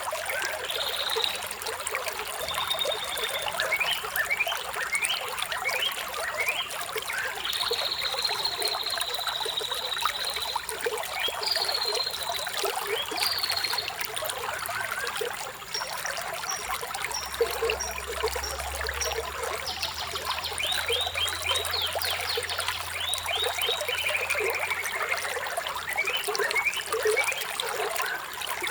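Running water trickling and splashing steadily, with songbirds chirping over it: quick runs of short chirps, a long held whistle, and a falling trill near the end.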